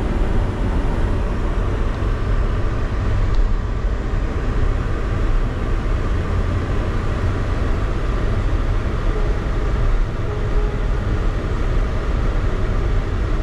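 Steady low rumble of road and engine noise inside a vehicle's cabin while driving.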